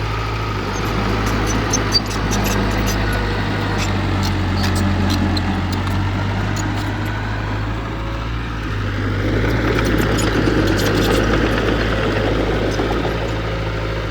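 Heavy earthmoving machinery's diesel engine running steadily, with a low hum and scattered light clicks, growing a little louder about two thirds of the way through.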